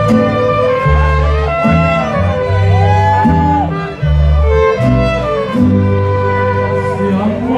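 Mariachi ensemble playing an instrumental passage: violins carry a sliding melody over strummed guitar and a deep plucked bass that changes note every half second or so.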